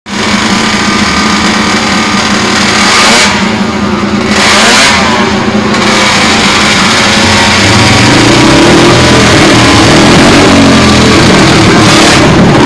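1956 Moto Guzzi 350 Bialbero's single-cylinder twin-cam racing engine running loud and being revved. The revs drop back briefly twice, around three and five seconds in, then hold higher and steadier.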